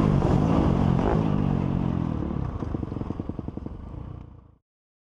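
Motocross motorcycle engine running loud, then falling away to a slower, pulsing putter. The sound stops abruptly about four and a half seconds in.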